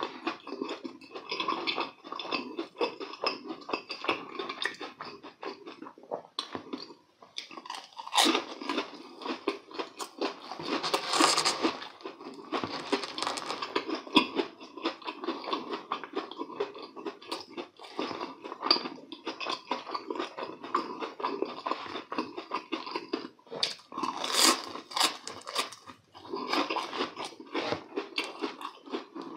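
Close-up chewing of deep-fried, breadcrumb-crusted croquettes, with frequent crisp crunches of the fried crust mixed with softer, wetter chewing.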